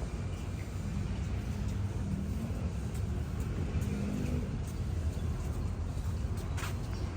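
Motor vehicle running with a steady low rumble, its engine note swelling slightly twice, and a short click near the end.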